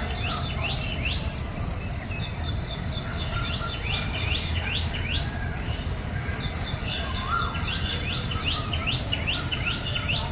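Insects chirring steadily, high-pitched and pulsing, with birds chirping in quick runs of short sweeping calls, over a low rumble.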